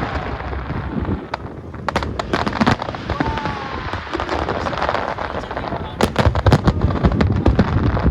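Fireworks display: rapid crackling and bangs, densest about two seconds in and again from about six seconds on, over the murmur of a crowd.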